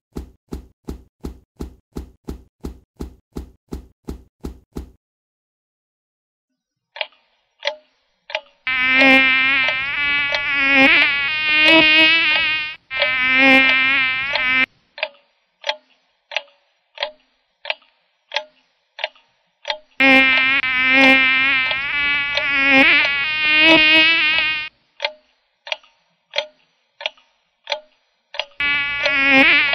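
Cartoon sound effect of a buzzing insect, a fly or mosquito whine that comes and goes in stretches of a few seconds, wavering as if the insect is flying about. It starts after steady ticking at about three ticks a second, and sparser ticks fall between the buzzing stretches.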